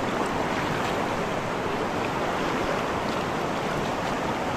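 River water rushing steadily through rapids.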